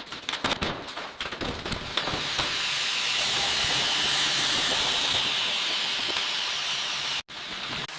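A quick run of clattering knocks, then a steady hiss that cuts off abruptly near the end.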